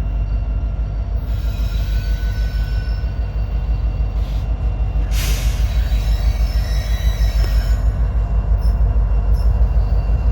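Loaded coal train rolling out of the yard: a steady heavy rumble that grows slightly louder, with thin high-pitched wheel squeal coming and going.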